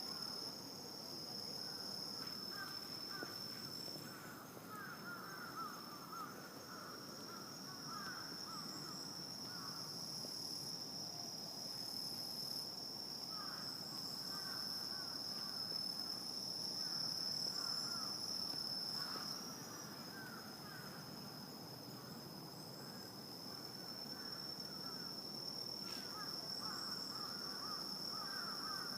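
Night insect chorus: a steady, unbroken high-pitched trill, with clusters of lower, quick repeated chirping calls that come and go every few seconds over a faint background hum.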